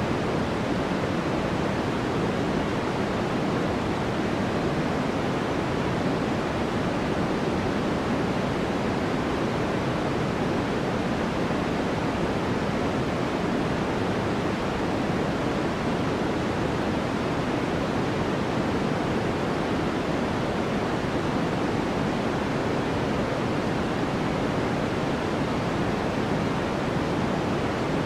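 Steady white noise for focus: an even, unbroken rush, fuller in the low and middle range than in the high hiss, with no change in level.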